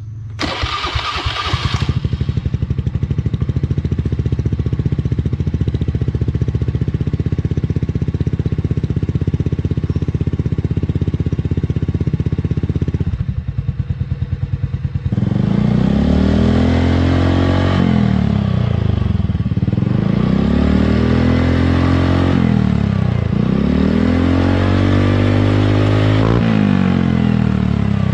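Automatic scooter's single-cylinder engine breathing through an aftermarket copy-CMS quiet exhaust: it starts with a brief burst, settles into a steady idle, then about halfway through is revved over and over, the note rising and falling every three seconds or so.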